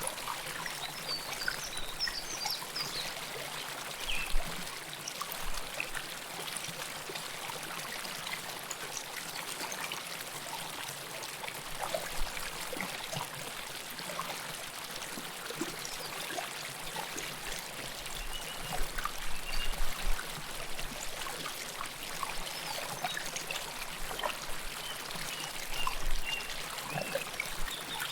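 River water flowing close to the microphone: a steady rushing with constant bubbling and small splashes, with a few louder splashes along the way.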